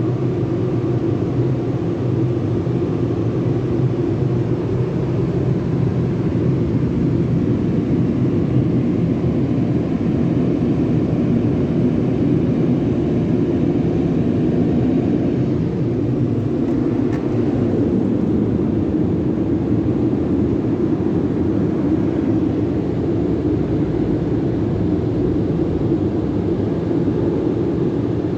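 Sonny's tunnel car wash equipment running, a loud steady rush that carries on without a break.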